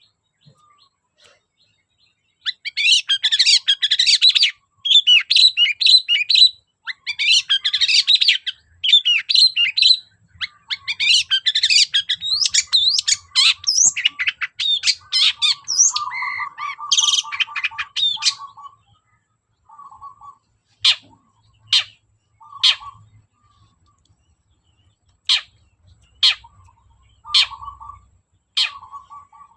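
Long-tailed shrike (cendet) singing: a long run of fast, chattering high notes in bursts, then, from about two-thirds of the way through, short sharp calls about once a second.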